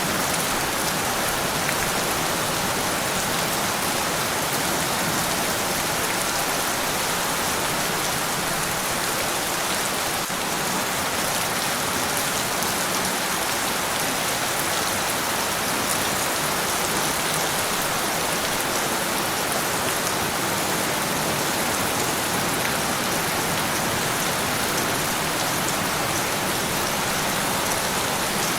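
Steady heavy rain falling on surfaces: a dense, even hiss of countless drops with faint scattered patters, unchanging throughout.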